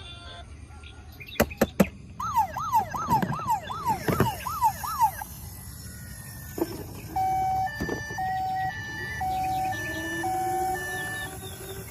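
Electronic toy siren. A few sharp clicks come first, then a fast rising-and-falling wail of about seven sweeps, then a series of short, steady, evenly spaced beeps.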